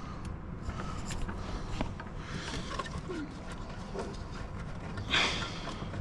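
Hands working on car parts: scattered light clicks and rubbing, with a short, louder rustling scrape about five seconds in.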